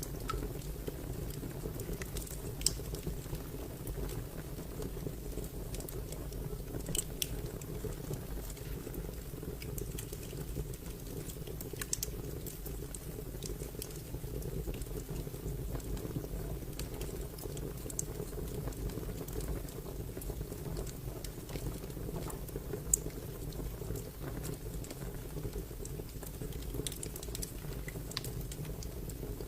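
Wood fire crackling: a steady low rush of burning with scattered sharp pops at irregular intervals, a few of them standing out loudly.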